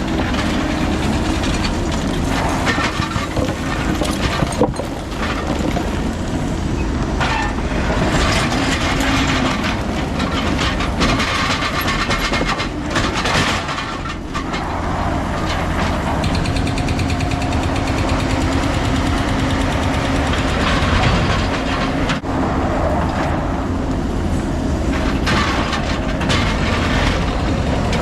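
Heavy diesel equipment running steadily under load, with irregular clanking and rattling of metal, rock and debris as it digs.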